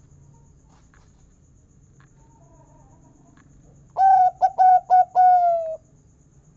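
Zebra dove (perkutut) singing, about four seconds in: a quick run of short cooing notes that ends in one long, slightly falling 'kung' note.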